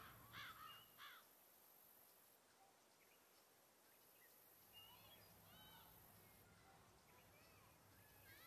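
Faint outdoor ambience: birds calling in short, repeated arched notes, a cluster in the first second and another about five seconds in, over a steady high hiss.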